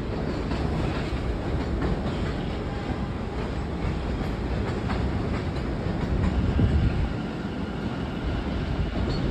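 Commuter train rumbling in the station: a steady low rumble with scattered clicks of wheels on rail.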